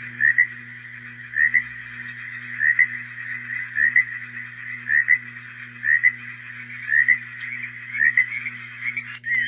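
Portable baby noise machine playing a frog nature track through its small speaker: a frog calls about once a second over a steady background hiss. There is a click near the end as the next sound is selected.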